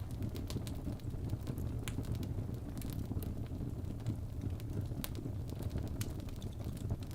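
Fire burning in a fireplace: a steady low rumble of flame with scattered sharp crackles, about one or two a second.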